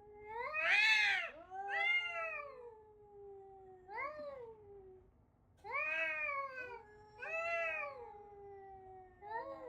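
Domestic cat meowing loudly and repeatedly: about six long, drawn-out meows, each rising and then falling in pitch, the loudest about a second in.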